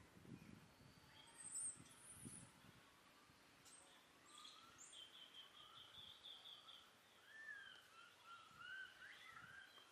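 Faint bird calls in a forest: high chirps, a rapid trill of repeated notes and short gliding whistles, with soft low rustling in the first two seconds.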